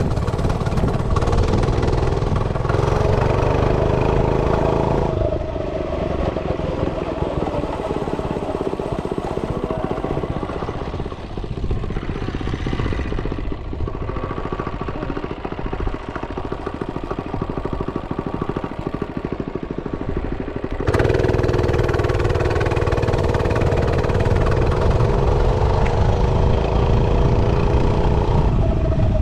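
Realtree RT100 mini bike's small single-cylinder engine running while being ridden. It is on the throttle at first, eases off for about fifteen seconds, then pulls harder again with its pitch rising and falling, before backing off near the end.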